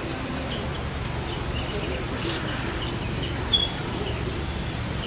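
Insects trilling in a steady high-pitched chorus that breaks off and resumes every second or so, with small chirps scattered through it and one brief louder chirp about three and a half seconds in, over a low rumble.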